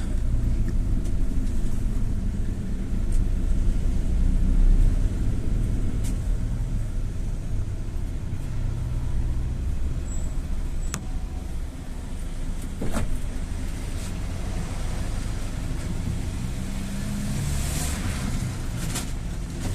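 Gazelle City minibus heard from inside the passenger cabin while under way: steady engine and road rumble, with a few sharp clicks from the body or fittings.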